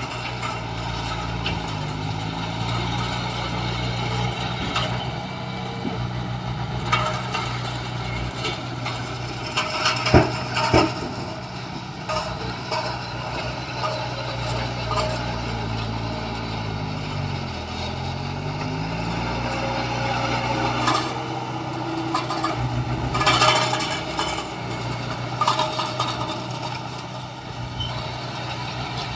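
Diesel engine of heavy construction machinery running steadily, its pitch dipping and coming back up about midway, with scattered metallic knocks and clanks.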